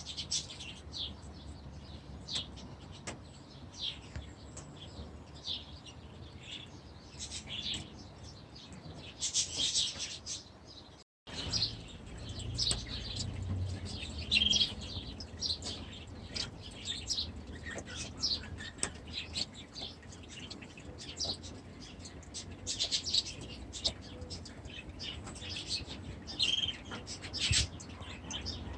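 A flock of aviary birds chirping and twittering in many short calls overlapping one another. The sound drops out for a moment about 11 seconds in, then the chirping carries on.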